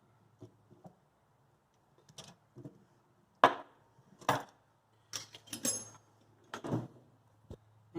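Hand tools being handled and set down: a series of separate knocks and clatters, the sharpest about three and a half and four seconds in, with light metallic clinking around five to six seconds in.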